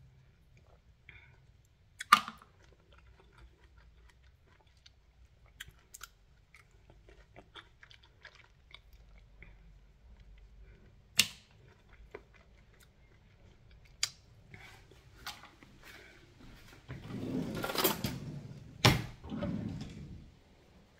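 Close-up chewing and wet mouth sounds of someone eating fresh cherries, with a few sharp clicks. Near the end comes a louder stretch of handling noise with a sharp knock.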